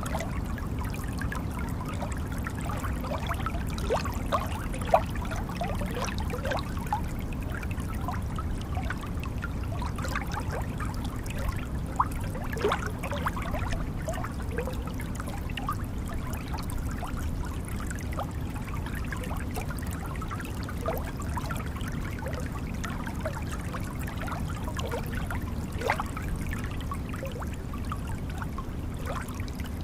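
Water noise: a steady low rush with many small scattered pops and clicks, a few sharper ones standing out.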